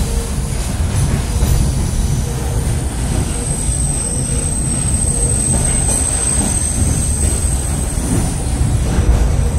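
Train running, heard from inside a railway carriage: a steady, heavy rumble of wheels on track, with a thin high-pitched whine coming in about a third of the way through.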